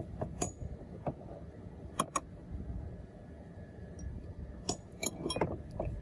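Small metal parts clinking and tapping against each other: single sharp clinks about half a second and two seconds in, then a quicker cluster of them near the end, over a low steady rumble.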